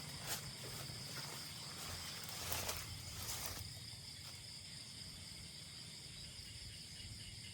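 Night chorus of insects: steady, high-pitched trilling on several pitches. A brief rustle sounds about two and a half seconds in, with a few light clicks near the start.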